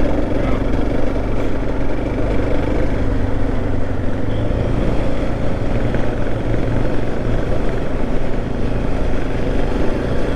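Motorcycle running steadily under way, with wind and road noise, on a rough, loose road where the bike is moving around.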